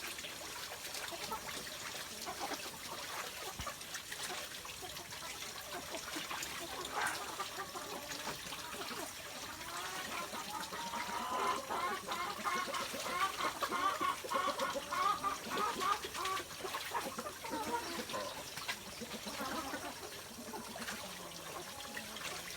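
Ducks calling in a chatter of many short quacks, busiest around the middle, over light splashing water in a pool.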